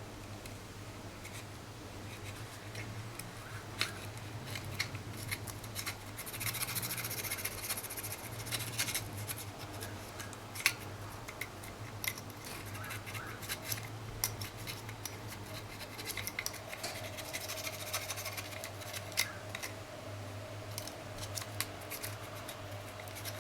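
Rolled-up fine sandpaper scraping and rubbing on the small metal contact pins of a Dyson power head, in irregular scratchy strokes with occasional sharp clicks, as the corrosion and dirt are cleaned off the pins.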